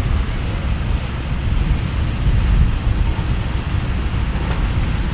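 Heavy typhoon rain pouring down steadily, a dense rushing hiss over a strong, uneven low rumble on the microphone.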